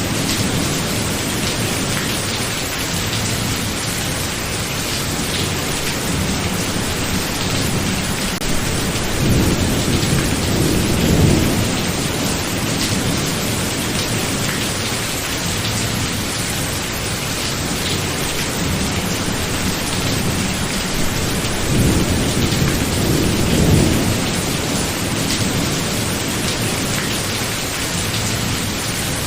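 Thunderstorm: steady heavy rain hissing, with low rolling thunder swelling up twice, about a third of the way in and again a little past three-quarters.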